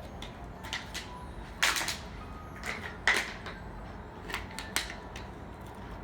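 Scattered sharp clicks and knocks over a low steady hum, about seven in all at uneven gaps, the loudest a quick double knock a little under two seconds in.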